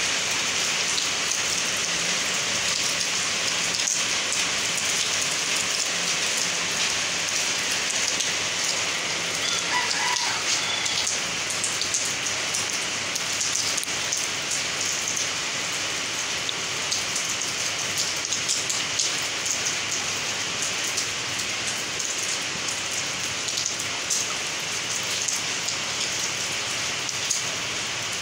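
Steady rain falling on a wet concrete courtyard: a dense, even hiss with individual drops ticking through it.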